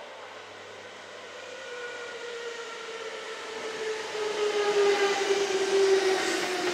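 Kintetsu electric train coming in, its motor whine falling slowly and steadily in pitch as it grows louder, loudest near the end.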